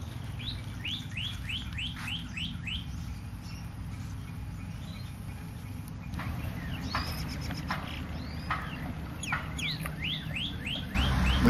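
Birds chirping: a quick run of short rising-and-falling chirps, about three a second, then scattered chirps again later. A louder rushing noise cuts in near the end.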